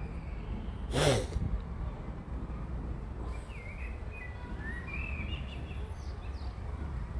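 Faint birdsong, a few short chirps from about three to six seconds in, over a steady low outdoor rumble. About a second in, one short, loud, breathy sound close to the microphone stands out as the loudest thing.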